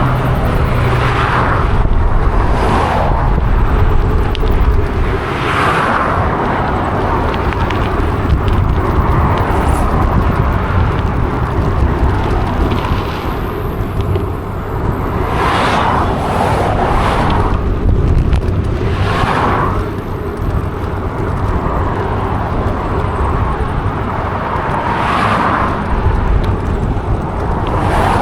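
Wind rumbling on the microphone of a moving bicycle, mixed with tyre noise and a whoosh that swells and fades every few seconds.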